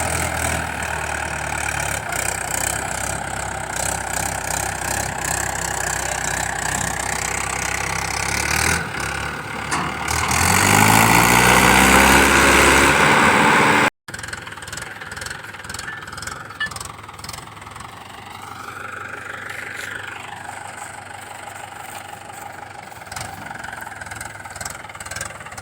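Tractor engine sound running steadily, then revving up loudly about ten seconds in. It cuts off abruptly about halfway through and goes on as a quieter engine hum.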